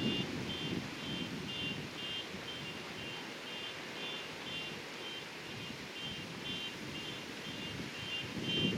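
Wind buffeting the microphone over the rumble of heavy surf, with gusts near the start and end. A steady series of short high chirps, about two a second, runs under it.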